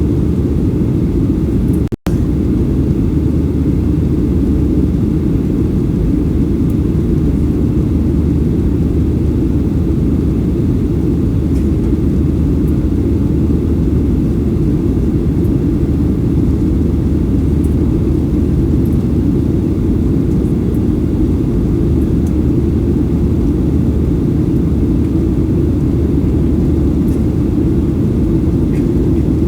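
Steady low rumble of a Boeing 737-800's CFM56-7B jet engines and airflow heard inside the passenger cabin, with the sound cutting out for an instant about two seconds in.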